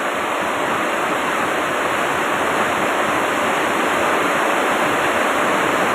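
Steady rushing noise, like running water or strong wind, that starts and stops abruptly.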